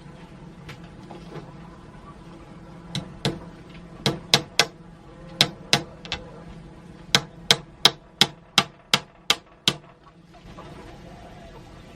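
A run of about fifteen sharp strikes, some in quick pairs, from about three seconds in until near the end, when they stop.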